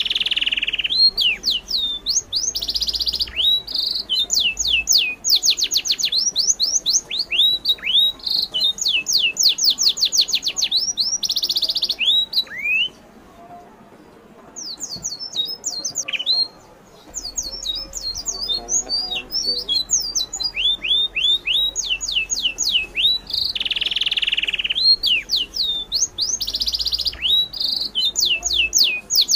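Birds chirping in quick runs of high, downward-sweeping calls, many per second, breaking off briefly twice around the middle.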